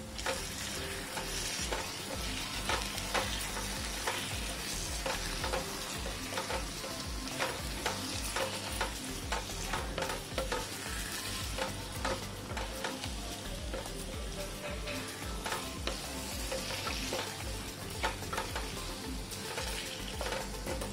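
Peeled karandi shrimp and masala frying with a sizzle in a non-stick pan while a wooden spatula stirs and scrapes through them, with many light knocks of the spatula against the pan.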